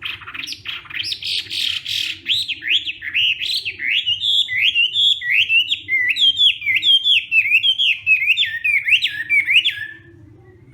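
Chinese hwamei singing loudly. Harsh, rasping notes come first, then a run of repeated whistled, slurred phrases, about two or three a second. The song stops shortly before the end.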